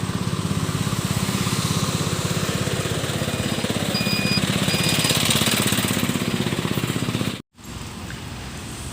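An engine running steadily with a fast, even pulse. About seven and a half seconds in, it cuts off abruptly and a quieter steady noise follows.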